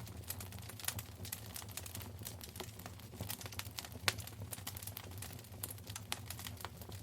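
Wood fire crackling in a fireplace: dense, irregular snaps and pops, with one sharper pop about four seconds in, over a low steady hum.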